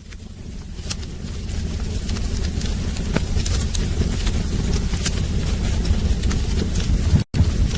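Wood fire burning in a fireplace: a steady low rumble with irregular sharp crackles and pops. It swells over the first two seconds, and the sound cuts out completely for a split second near the end.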